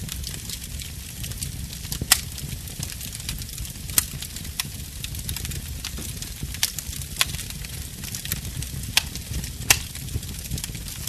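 Wood fire in a fireplace crackling steadily over a low rumble, with frequent sharp pops; the loudest pops come about two, four, seven and nearly ten seconds in.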